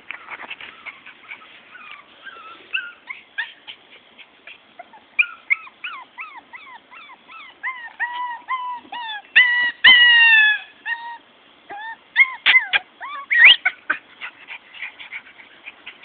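Morkie (Maltese–Yorkshire terrier cross) puppy whimpering and yipping: a long run of short, high cries, two or three a second, with a louder drawn-out whine about ten seconds in.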